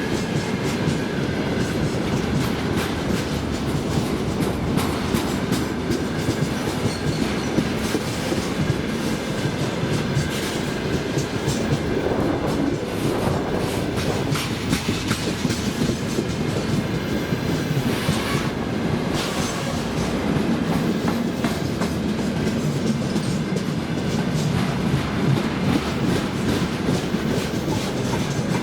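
Freight train rolling past: a continuous steady rumble of wagon wheels on the rails, with a rapid clatter of clicks as the wheels cross rail joints.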